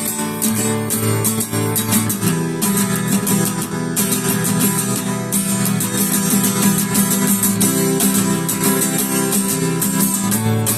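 Acoustic guitar strumming chords in a steady rhythm, playing out the instrumental ending of the song after the last sung line.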